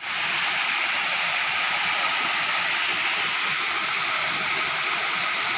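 Waterfall's water rushing and splashing in a steady, unbroken hiss.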